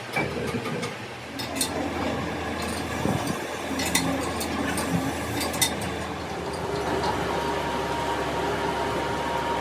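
Metal parts clinking and knocking as they are handled, a few separate sharp clicks. A steady machine hum with a faint whine joins about two thirds of the way in.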